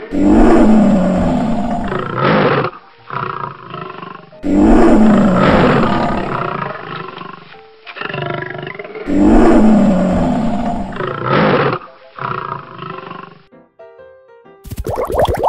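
Lion roar sound effect, the same loud roar repeated three times about four and a half seconds apart, with quieter growls between. A different, rapid patterned sound effect starts just before the end.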